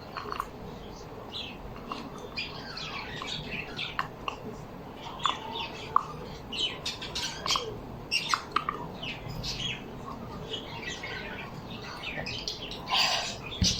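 Several birds chirping and squawking together in a busy, overlapping chatter of short calls, with a louder call near the end.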